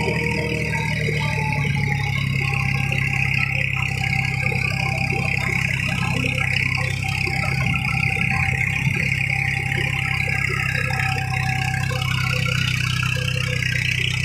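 Tractor diesel engine running steadily under load, with a constant high hiss over the low engine note.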